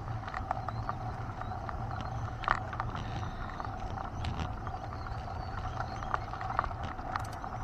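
Mountain bike being ridden: a steady rolling rumble with scattered short clicks and rattles.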